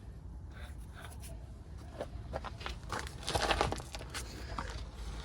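Irregular metal clicks and knocks from a front axle shaft being worked into place, with a longer rasping scrape about three seconds in as it slides further in.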